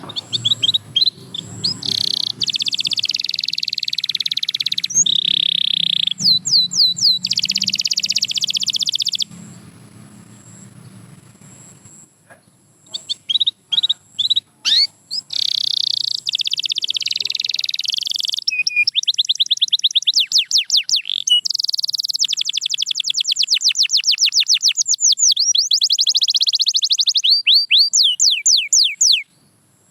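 Domestic canary singing: long, high-pitched phrases of fast repeated notes and trills. The song pauses for about three seconds a third of the way in, then resumes in rapid repeated notes until it stops just before the end.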